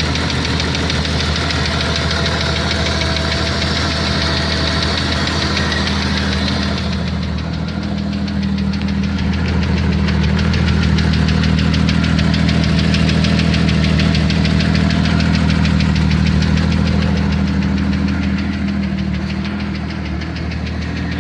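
1992 Jeep Cherokee XJ's 4.0-litre straight-six running with a steady, rhythmic knock, which the owner suspects is a loose flexplate bolt or piston slap. About seven seconds in, the sound turns duller and the low engine hum grows louder.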